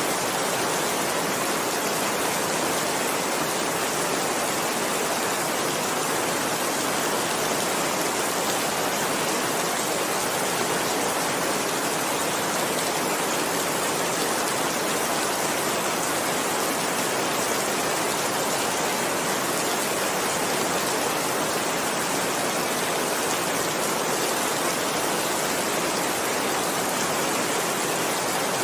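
Heavy rain falling steadily, an even hiss of downpour with no breaks or thunder.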